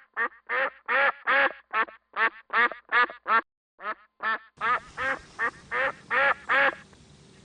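Duck quacking in a rapid series of short, loud quacks, about three a second, with a brief pause partway through. The quacking stops shortly before the end, leaving only faint hiss.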